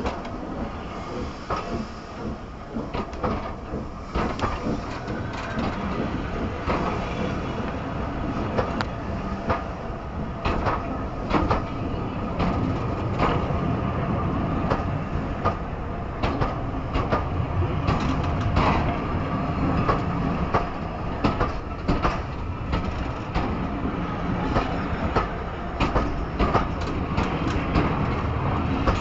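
A train of vintage passenger coaches rolling past close by, its wheels clicking rhythmically over the rail joints. The sound grows louder over the first half.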